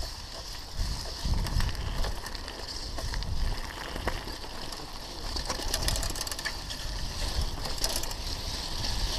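Wind buffeting a bike-mounted microphone over the rattle and crunch of a mountain bike rolling on a rough dirt trail, with many scattered clicks and knocks.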